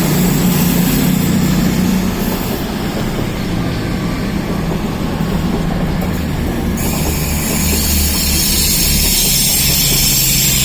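Class 220 Voyager diesel-electric multiple unit departing under power, its underfloor diesel engines running with a steady low hum as the carriages pass, together with a noisy rush of wheels on rail.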